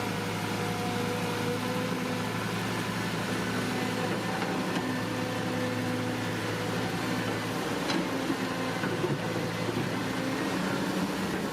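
Radio-controlled Huina toy excavator running, its motors giving a steady whine made of a few held tones that shift in pitch every few seconds, with a few faint ticks.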